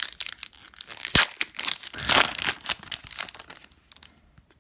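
Plastic wrapper of a basketball card pack crinkling and tearing as it is pulled open, with sharp crackles that are loudest about two seconds in and die away near the end.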